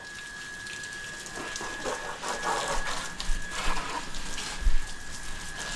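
Water spraying and splashing in irregular bursts, with a steady high whine underneath and a couple of dull thumps.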